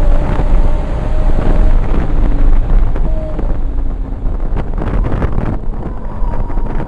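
Onboard sound of a 1994 Toyota Supra's single-turbo 2JZ inline-six running at speed on track, with heavy wind buffeting on the microphone. About halfway through, the sound grows duller and a little quieter.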